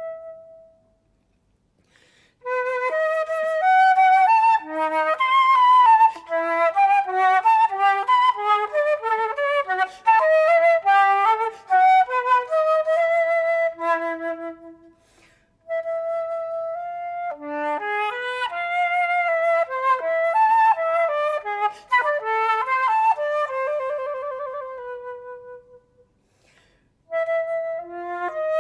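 Unaccompanied solo flute playing quick, running melodic phrases, with brief pauses between phrases near the start, about halfway through and near the end.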